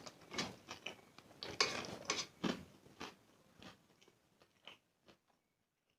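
Close-miked chewing and mouth smacks of someone eating noodles: several sharp smacks in the first three seconds, thinning out to a few faint clicks after that.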